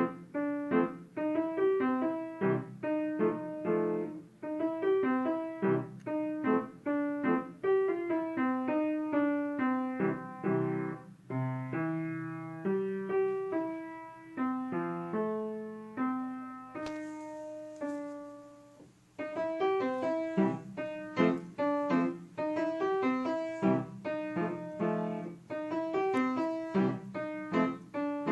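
Solo piano music: a steady flow of quick notes, easing to a held note and a brief lull about seventeen seconds in, then picking up again.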